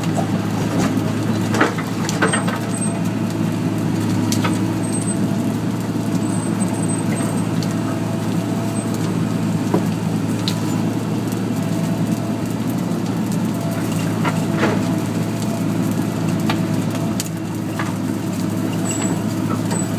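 Excavator's diesel engine running steadily under load, with a few sharp knocks and cracks scattered through.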